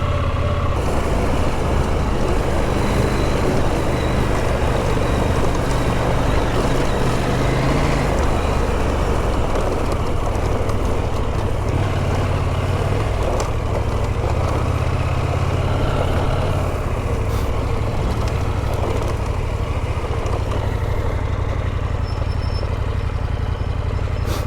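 Adventure motorcycle engine running under way, its low pitch rising and falling a few times with the throttle, with a steady rushing noise over it.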